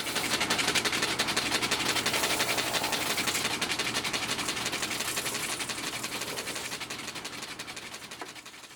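Shoe repair stitching machine running fast, a rapid, steady mechanical clatter that fades out near the end.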